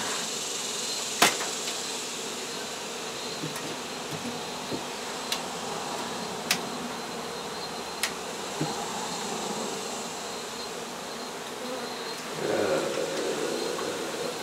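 Honey bees buzzing steadily in large numbers around an opened hive, with several sharp clicks scattered through.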